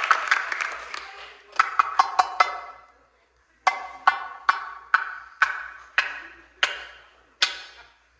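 Percussive music: a quick run of four struck notes, then single struck notes about every half second, each ringing briefly and dying away.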